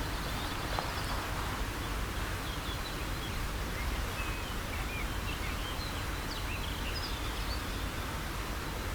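Faint short chirps from small birds scattered through, over a steady low outdoor rumble.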